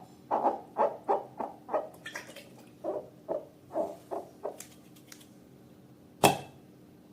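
Slime being squeezed and worked by hand: a run of short wet squelches, two to three a second, fading out after about five seconds. A single sharp pop comes about six seconds in.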